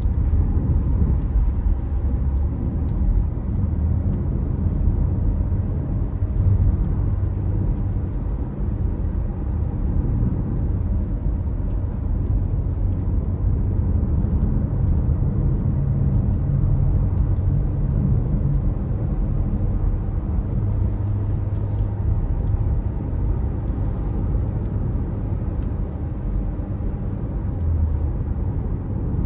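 Car driving steadily on a road: an even, low rumble of engine and tyres, with a few faint clicks.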